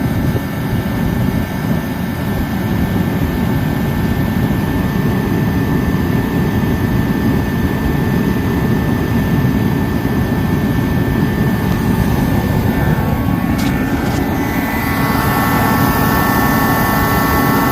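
Dyna-Glo KFA80H 80,000 BTU forced-air heater running on diesel: a steady roar of fan and burner, with a higher whine that grows stronger about fourteen seconds in. It is burning poorly: smoky, spitting out diesel and not putting out the heat it should.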